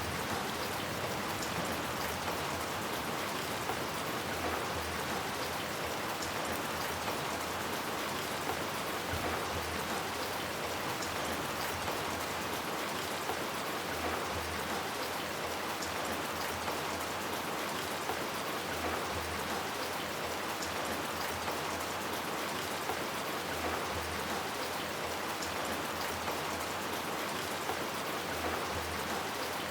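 Steady rain falling on hard surfaces, an even hiss with scattered individual drop ticks and no lulls.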